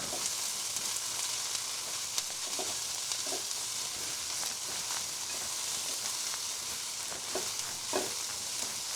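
Sliced cabbage and carrots sizzling steadily in oil in a non-stick pan on high heat, with a few light taps of the spatula as they are stirred.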